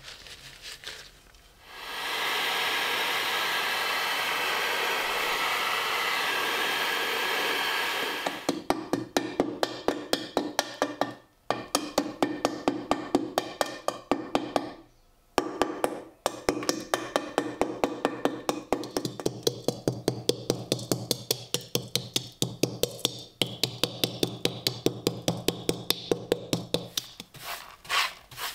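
Quick, even rubbing strokes, several a second, against the rusty steel of an M40 helmet during rust removal, with two short pauses. They follow a steady hiss lasting about six seconds.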